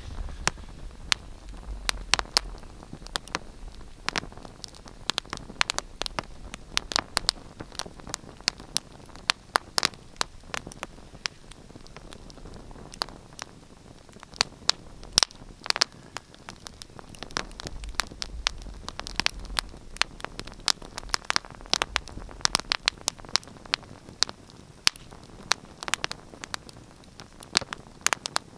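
Wood fire crackling: irregular sharp pops and snaps over a soft hiss, with a low rumble of the flames now and then.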